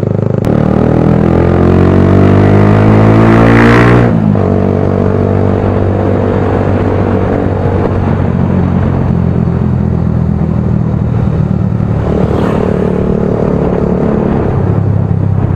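Motorcycle with a loud aftermarket exhaust pipe accelerating, its engine pitch rising for about four seconds before dropping sharply, then running on steadily, with a smaller rise in revs near the end.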